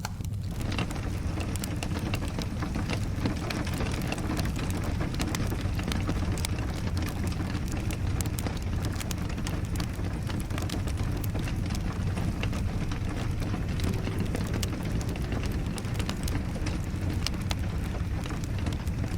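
Wood fire crackling with many sharp pops over steady rain.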